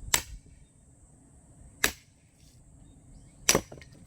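Axe striking firewood while splitting logs: three sharp chops, evenly spaced about a second and a half apart.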